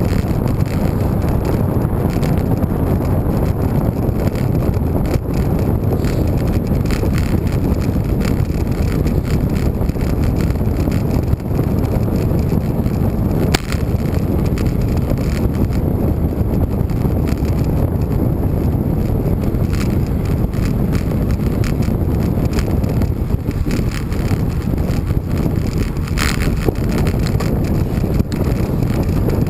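Wind buffeting the microphone of a camera riding along on a moving road bike: a steady low rush, with a couple of brief clicks.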